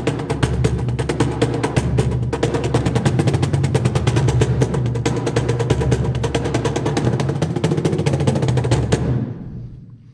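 Cajon, a wooden box drum, played with the hands in a rapid, continuous run of strikes mixing deep bass thumps and sharper slaps; the playing stops about nine seconds in and rings away.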